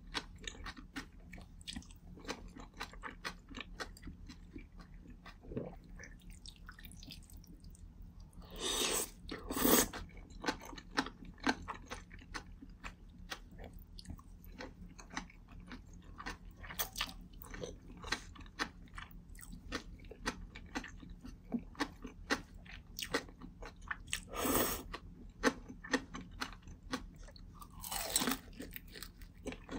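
Close-miked chewing and crunching of chewy jjolmyeon noodles and bean sprouts, with sharp wet mouth clicks many times a second. A few longer, louder slurps of noodles stand out, the loudest about a third of the way in and another near the end, followed by a bite into a fried dumpling.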